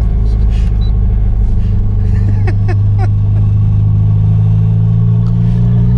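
Turbocharged Mitsubishi G54B 2.6-litre four-cylinder engine of a Chrysler Conquest running steadily while the car is driven, with a few brief high chirps about halfway through.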